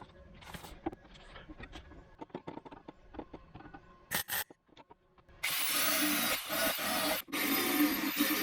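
Electric welder laying short bursts of weld on a car's sheet-steel sill: a brief burst about four seconds in, then a sputtering hiss of about two seconds, a short break, and another burst of about a second. Before that come faint clicks and handling noises.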